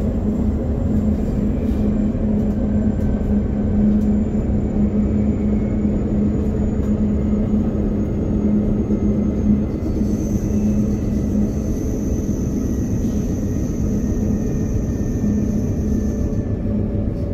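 Steady rumble and low hum of a modern train running at speed, heard from inside the driver's cab. About ten seconds in, a high whine joins and holds for about six seconds before cutting off.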